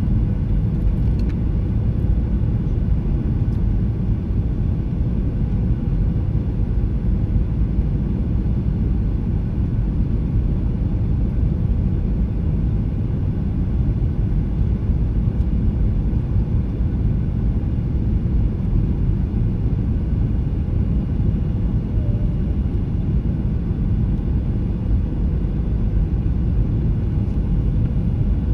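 Steady low rumble of jet engine and airflow noise inside the cabin of a Boeing 737-800 on final approach, with a faint steady hum above it.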